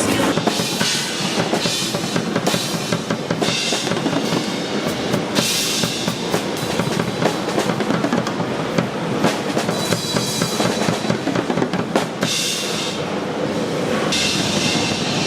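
A drum kit being played: dense kick and snare hits with stretches of bright cymbal wash.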